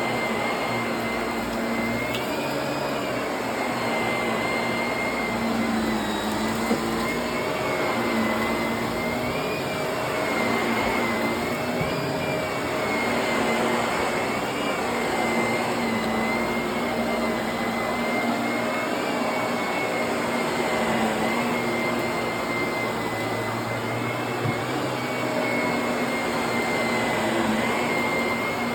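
Vacuum cleaner running steadily, a continuous motor whine and airflow noise whose pitch wavers slightly as it is worked back and forth.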